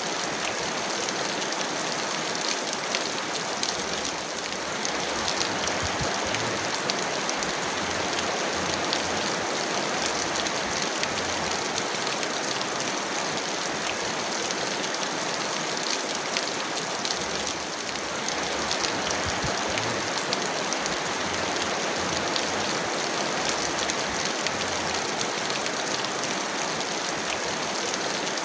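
Heavy rain falling steadily: a dense, even hiss of rainfall with many small drop ticks through it.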